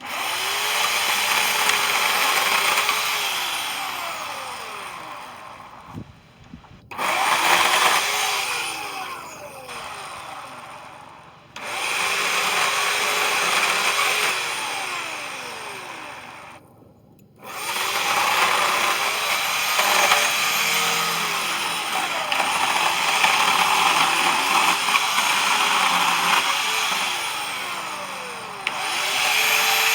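Power saw cutting through wooden branches, its motor pitch sagging and recovering as the blade bogs in the wood. It comes in several separate runs with abrupt starts and short breaks between them.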